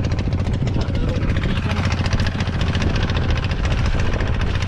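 A small engine running steadily, with fast even pulses and a strong low hum.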